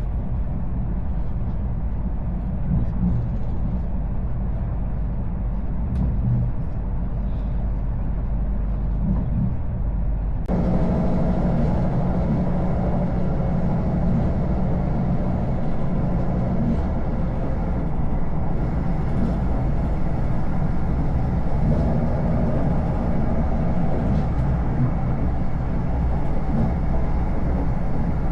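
Steady rumble of a moving passenger train heard inside the carriage. About ten seconds in the noise changes abruptly and becomes fuller and slightly louder.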